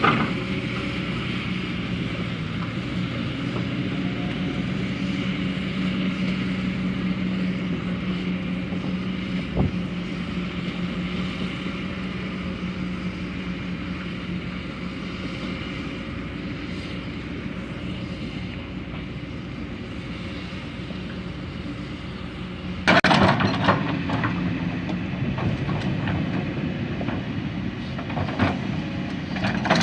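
Heavy diesel construction machinery running steadily, with a loud metallic clatter about two thirds of the way through, followed by further knocks, typical of material being loaded or dumped.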